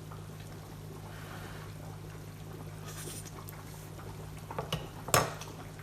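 Kitchen cookware being handled over a steady low hum: a few light clicks, then one sharp clank of a pan or utensil near the end.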